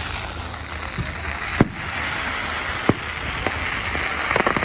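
Fireworks going off: scattered single bangs, the loudest about a second and a half in, then a quick cluster of pops near the end, over a steady background hiss.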